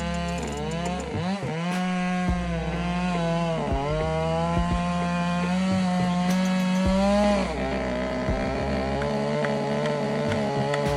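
Chainsaw running at full speed while cutting wood. Its pitch dips and recovers about three times as the chain bogs under load, then settles lower near the end.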